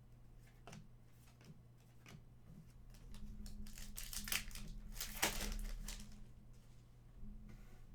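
Crinkling and rustling of trading-card packaging and cards being handled, heaviest in the middle, with a few light clicks, over a steady low electrical hum.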